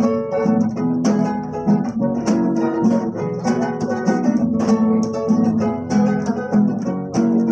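Acoustic guitar strumming a steady rhythmic chord pattern between sung verses.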